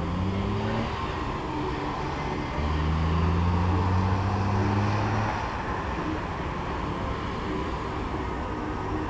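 A vehicle engine accelerating over steady street traffic noise. It rises briefly at the start, then comes in louder for a few seconds with its pitch climbing slowly before it fades back into the traffic.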